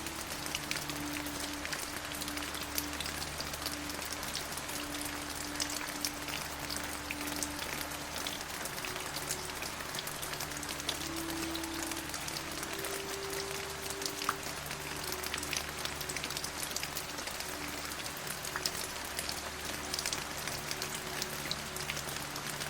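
Steady rain with many close, sharp raindrop ticks. Soft, slowly changing sustained low tones of a calm music bed run underneath.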